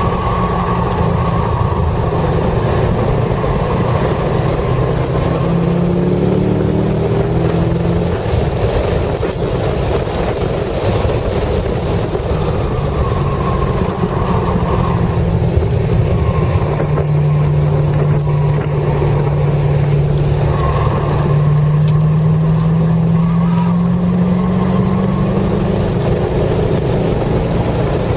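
Corvette C6 Z06's 7.0-litre LS7 V8 heard from inside the cabin at track speed, with wind and road noise. The engine's pitch climbs once around a quarter of the way in, holds, then rises in one long, steady pull over most of the second half as the car accelerates down a straight.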